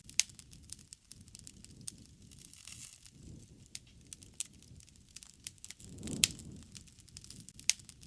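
Wood fire crackling and popping: irregular sharp snaps over a low rumble of burning, with the loudest pop about six seconds in.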